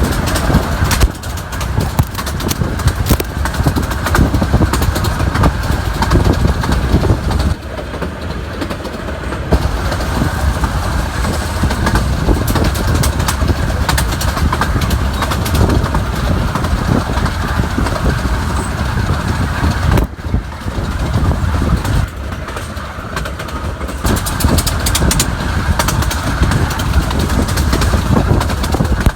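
Train on a 15-inch gauge miniature railway running, a loud continuous rumble with rapid clattering.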